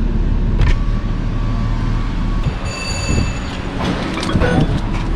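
Automatic car-wash machinery heard from inside the car: a continuous low rumble, a short high squeal a little past halfway, and some clattering near the end.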